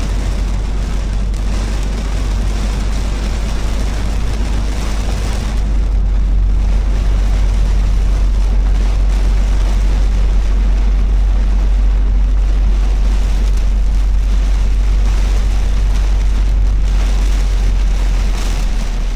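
Car driving on a wet road in the rain: a steady deep rumble of road and wind noise under the hiss of rain and tyre spray. The rumble grows louder about six seconds in and eases near the end.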